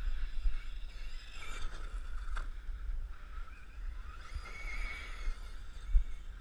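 Electric motor of a Team Associated Rival 1/8-scale monster truck whining as the truck is driven in two bursts. Under it there is a constant low rumble from wind on the microphone, a sharp click partway through, and a thump near the end.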